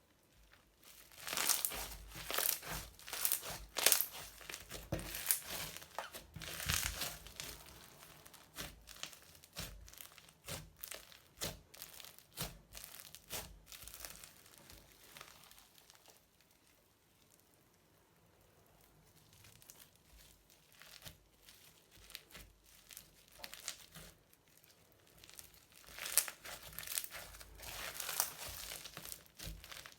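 Crunchy slime mixed with modelling foam being squeezed and kneaded by hand, giving a dense run of crackles and pops. It eases off for a few seconds midway, then picks up again.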